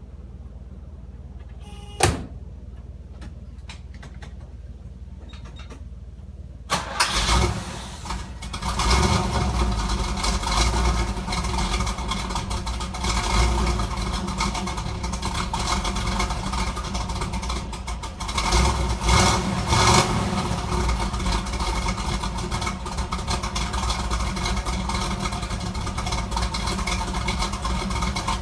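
After a single sharp knock, the 1968 Camaro's original 327 cubic-inch small-block V8 cranks and fires on a cold start about seven seconds in. It settles into a steady idle that swells briefly a few times as the throttle is blipped.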